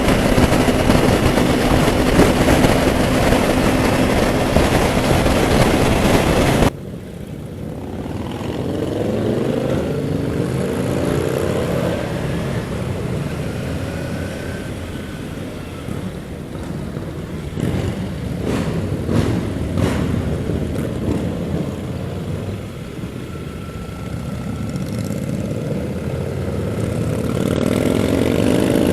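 Motorcycle riding on a highway: a steady engine drone with heavy wind noise, which drops off abruptly about seven seconds in. After that come quieter engine and traffic sounds, with vehicles sweeping past and an engine rising in pitch near the end.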